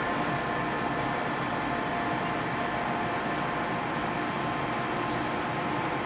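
Steady mechanical running noise, with faint constant whining tones over an even hiss and no change in level, typical of the D4CB diesel engine running during testing.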